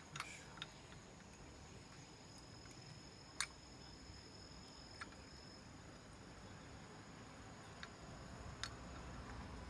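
Quiet hand work: a few isolated sharp clicks and taps of parts being handled, the loudest about three and a half seconds in, over a faint steady high-pitched whine.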